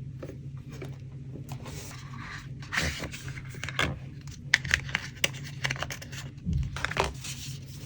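Paper and stationery being handled on a desk for a collage: rustling and scraping of paper sheets, with many small taps and clicks, over a steady low hum.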